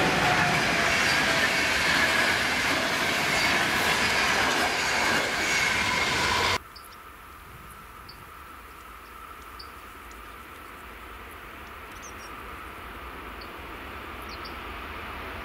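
Passenger train of coaches passing close at speed: a loud rush of wheel and rail noise with a falling whine. About six and a half seconds in it cuts off abruptly, leaving a quieter scene with a few faint high chirps and the low rumble of a distant freight train approaching, slowly growing louder.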